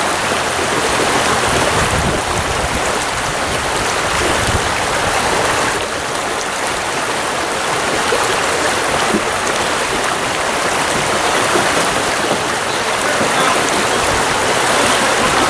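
Fast-flowing stream water rushing over a riffle, a steady, even hiss with no breaks.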